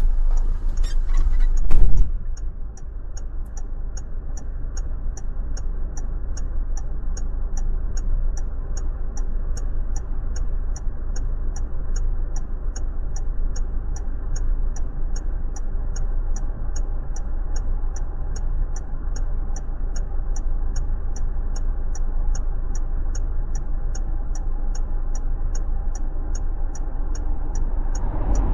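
Car's turn-signal or hazard flasher ticking steadily, somewhat under two ticks a second, over the low hum of the engine idling, heard inside the stopped car. A louder rustling noise cuts off suddenly about two seconds in.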